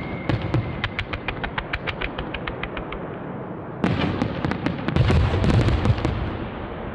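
Aerial fireworks display: a rapid series of sharp crackling reports, then about four seconds in a sudden louder volley of shell bursts, with deep booms and dense cracking that ease off near the end.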